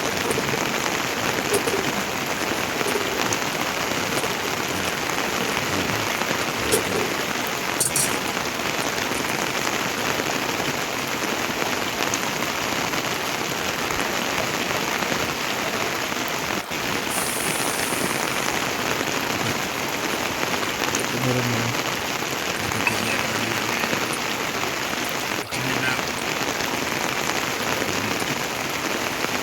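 Steady heavy rain falling on surfaces, with a few faint drips and small knocks scattered through it.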